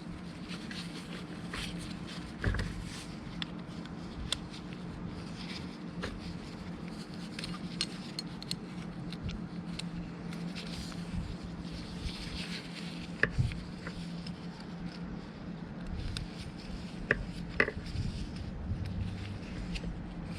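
Scattered small metal clinks, knocks and scrapes of hand work on parts and tools, over a steady low hum.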